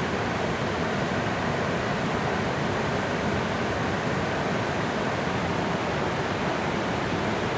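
Steady rush of water flowing over a dam.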